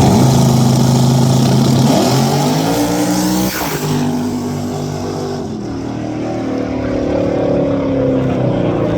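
Vehicle engine accelerating hard through the gears: its pitch climbs, drops abruptly at each upshift, about three and a half and five and a half seconds in, then climbs again.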